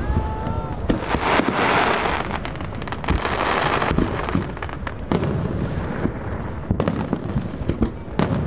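Aerial fireworks going off in quick succession: many sharp bangs close together throughout.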